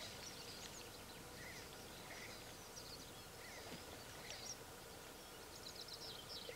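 Faint, scattered high-pitched bird calls: many short chirps and squeaks coming irregularly over a steady low hiss.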